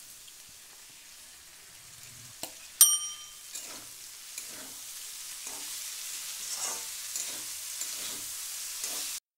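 Potato sticks and freshly added dheki shak greens sizzling in oil in a metal kadai while a spatula stirs them, scraping about twice a second. About three seconds in, one bright ringing ding is the loudest sound.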